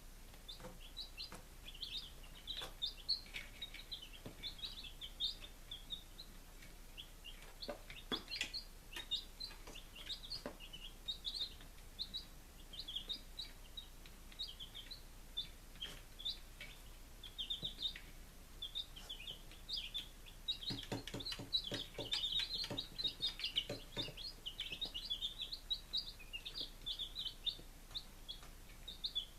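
Baby chicks peeping: a constant stream of short, high peeps from several birds. A run of light taps or knocks comes about two-thirds of the way through.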